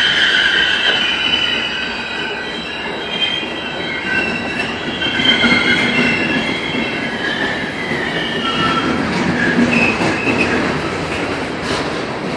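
Regional passenger train rolling slowly into a station as it brakes to a stop. Its carriages rumble past with high, shifting squeals at several pitches at once.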